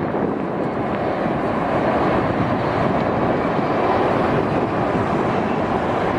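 Steady engine noise of a passing jet airliner, swelling slightly about midway.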